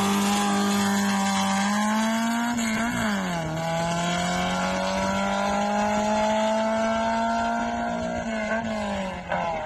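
A Honda Civic's stock-rebuilt VTi engine with a ported head, revving hard as the car accelerates away at full throttle. The pitch rises, drops at an upshift about three seconds in, then climbs again until another shift near the end. The engine sounds really good: a healthy, strong-pulling engine.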